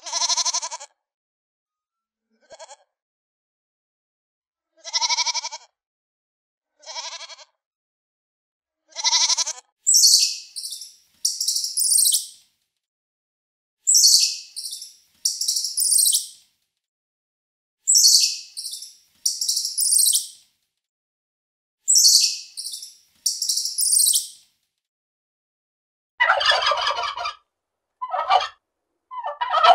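A goat bleating several times. Then a squirrel gives four bouts of shrill, rapid chattering calls. A turkey starts gobbling near the end.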